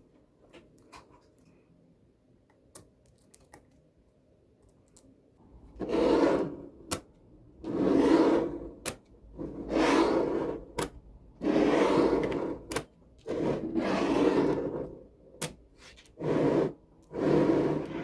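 Small magnetic balls clicking sharply against one another, then a run of rubbing scrapes about every one and a half to two seconds, with single clicks in between.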